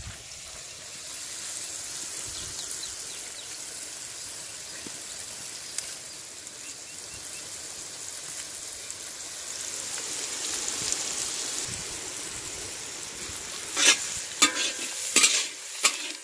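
Chopped vegetables frying in hot oil in a large iron wok, with a steady sizzle. Near the end a metal spatula scrapes and knocks against the wok several times as it is stirred.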